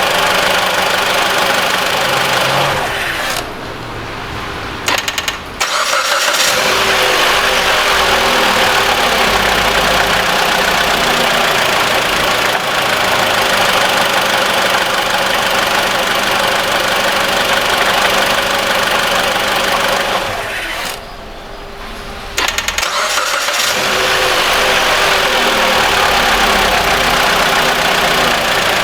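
Mitsubishi ASX's 1.8-litre petrol four-cylinder engine running, switched off about three seconds in, then cranked by the starter and started again; the same stop and restart comes again about twenty seconds in. It runs without the intermittent rattle that an idler pulley on the accessory belt was suspected of.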